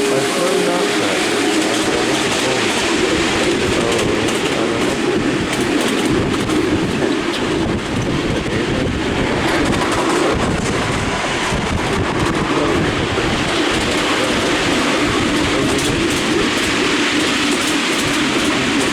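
Miniature railway train, hauled by a Class 43 HST model locomotive, running along the track: a steady rumble of wheels on rails, heard from aboard the riding cars.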